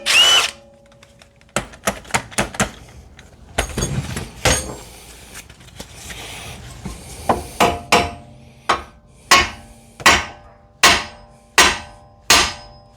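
Hammer striking metal car suspension hardware. A few light knocks come first, then from about halfway a steady run of about ten hard blows, roughly three every two seconds, each ringing briefly.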